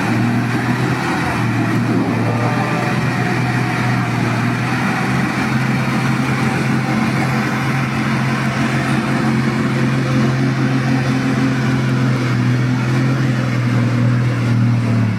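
Truck engine running steadily, holding one pitch with a strong low hum.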